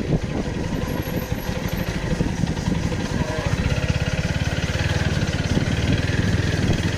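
TVS Apache RTR 4V motorcycle's single-cylinder four-stroke engine running steadily, with a fast even firing pulse.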